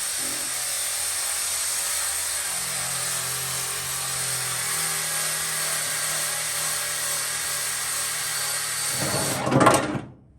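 Electric drill running steadily with a tool working on car body metal. It surges briefly louder about nine seconds in, then stops.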